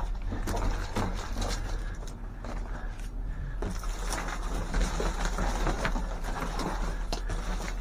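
Items being rummaged through and handled: rustling with scattered knocks and clatter over a steady low rumble.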